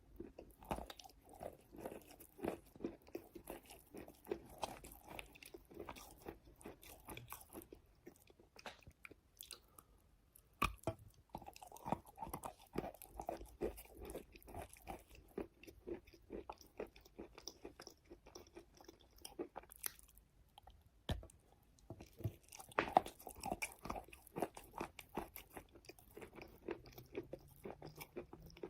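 A person biting and chewing wet chalk: many soft, quick crunches in close succession, thinning out briefly a couple of times.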